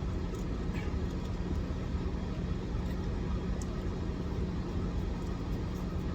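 Steady low hum of an idling car heard from inside the cabin, with a constant low tone and a few faint clicks.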